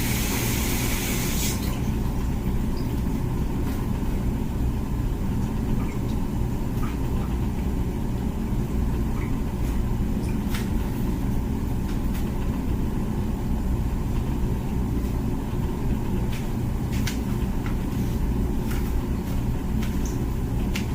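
Comfee dishwasher running mid-cycle: a steady low motor hum and rumble, with a few faint clicks.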